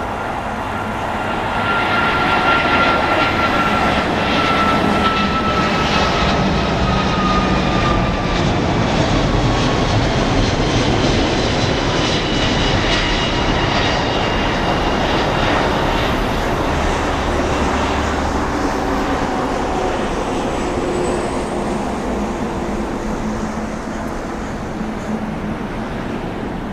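Boeing 777-200ER's twin turbofan engines at takeoff thrust: a loud jet roar that swells about two seconds in. Whining tones slowly fall in pitch as the aircraft passes, and the roar eases off gradually toward the end.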